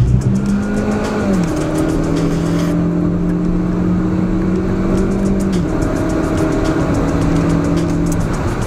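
Hyundai Veloster Turbo's 1.6-litre turbocharged four-cylinder engine running steadily at high revs, around 5,000 rpm, under way on the road. Background music plays along with it.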